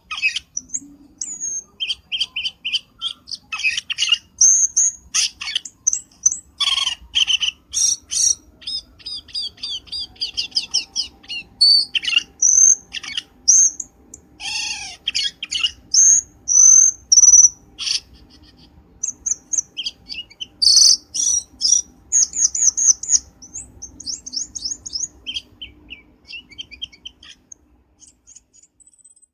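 Cucak keling birds calling: a fast, varied run of sharp chirps, whistled notes and chattering trills, repeated with short gaps, as in a bird-trapping lure call.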